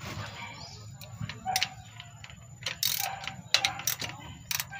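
Irregular metallic clicks and clinks of a socket wrench working on the engine as a spark plug is unscrewed, with a ratchet-like ticking in places.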